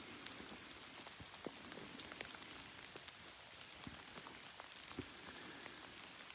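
Light rain falling: a faint, steady patter with scattered single raindrops ticking sharply here and there.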